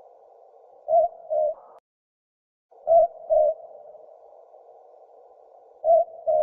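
Southern boobook (mopoke) calling its two-note 'boo-book', three times about every two and a half seconds, the second note of each pair slightly lower.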